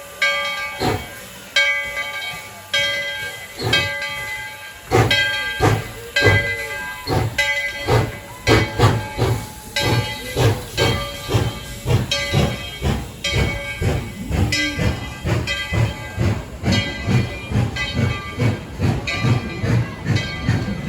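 Tweetsie Railroad's narrow-gauge steam locomotive No. 12 starting its train, its exhaust chuffing. The beats begin slow and quicken steadily as it picks up speed, with steam hiss and a steady pitched sound underneath.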